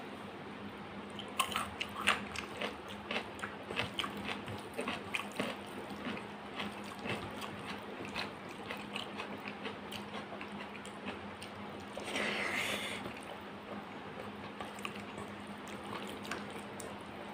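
Wet, close-up chewing of a mouthful of rice and dal: a quick run of small moist clicks and smacks for several seconds. Then softer squishing as fingers mix rice in a steel bowl, with one brief rustling burst about twelve seconds in. A steady low hum runs underneath.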